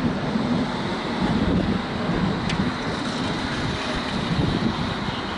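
London Underground S7 stock train running into a station platform: a steady rumble of wheels on rail as the carriages pass close by, with a faint high whine throughout and a single sharp click about halfway through.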